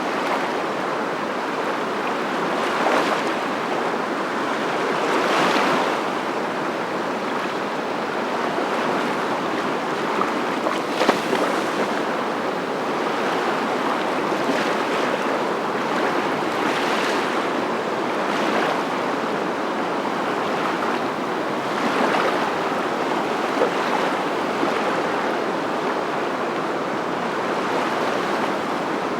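A steady rushing noise that swells and eases every few seconds.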